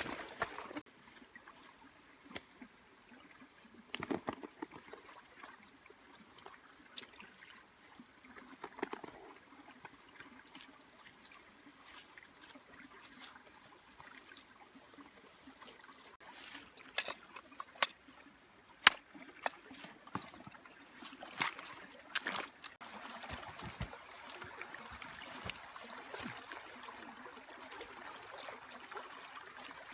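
Water splashing and trickling, with scattered sharp clicks and knocks; a steadier rush of water sets in near the end.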